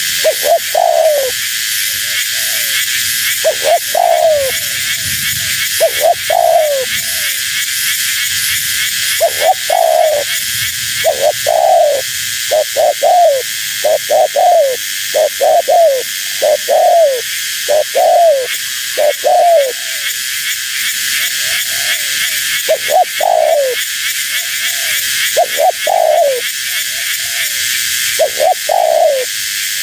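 Spotted dove (tekukur) cooing: short falling coo notes in repeated phrases every second or two, over a steady high hiss.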